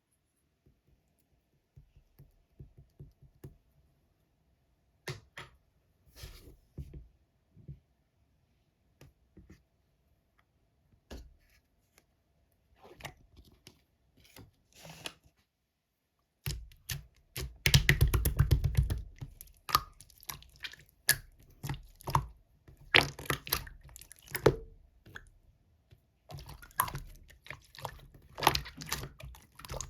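Slime being squeezed and poked by hand: sparse small clicks and squishes at first, then from a little past halfway a dense run of sticky clicking and crackling, loudest for a couple of seconds just after it starts.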